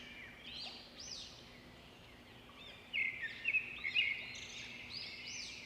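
Small birds chirping and twittering, many short high chirps that rise and fall, growing busier and a little louder about three seconds in.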